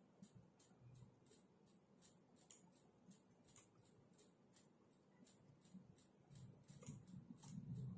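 Faint typing on a computer keyboard: quick, irregular key clicks, about three or four a second. A low hum comes up over the last second or so.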